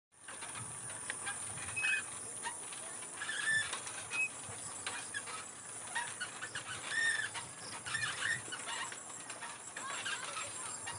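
Birds calling in short chirps, irregular and repeated, over a steady high-pitched hiss.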